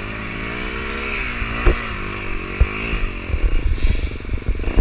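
Dirt bike engine running at low revs, its pitch rising and falling, with a few sharp clunks and knocks.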